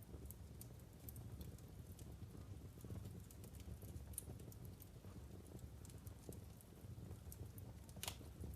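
Logs burning in a wood fireplace: scattered small crackles and pops over a low steady rumble, with one louder crack near the end.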